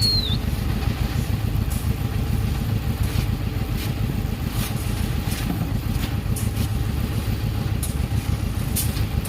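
An engine running steadily at an even speed, with a few faint clicks above it.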